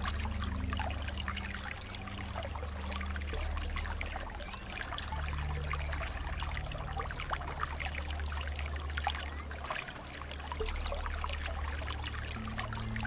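Water trickling and bubbling steadily, with many small splashing clicks, over a low droning hum that shifts pitch every few seconds.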